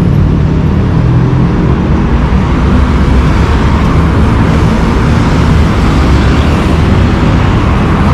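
Steady road traffic: car and bus engines and tyres running past continuously, loud and heavy at the bottom end.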